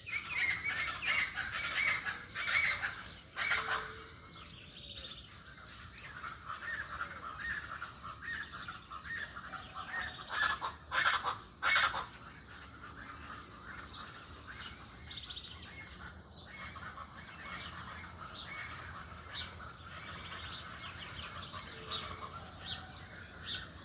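Many small birds chirping and trilling together in a dense chorus, busier in the first half. A few short, loud sounds stand out, once early on and three times close together about halfway through.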